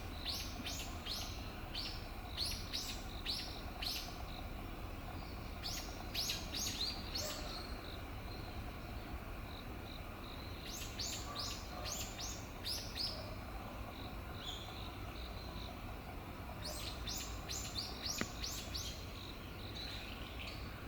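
A bird calling in four bouts of quick, high, downward-slurred notes, several a second, over a steady low background rumble.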